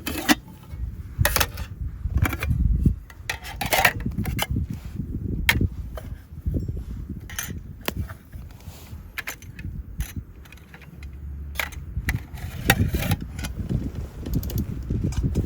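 Irregular clinks, taps and knocks of small objects being handled, over a low rumble.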